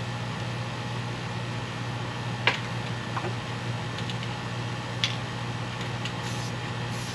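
A steady low hum with a faint even hiss, and two sharp clicks about two and a half seconds apart.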